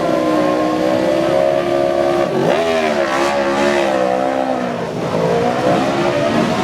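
Several racing superbike engines running at once, their pitch dipping and climbing as the throttles are worked, with a sharp dip and rise about two and a half seconds in.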